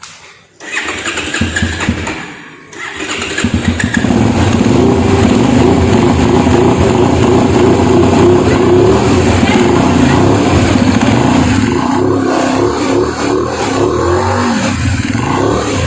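Benelli 752S motorcycle's 754 cc parallel-twin engine on its stock exhaust, starting about a second in and then running loudly and steadily, easing off near the end.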